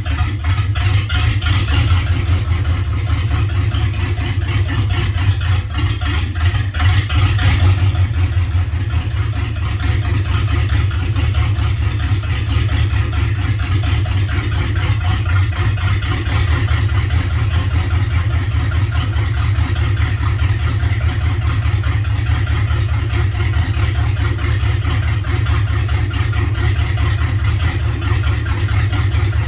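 GM LQ4 6.0-litre V8 engine idling roughly, a steady low running sound with no revving.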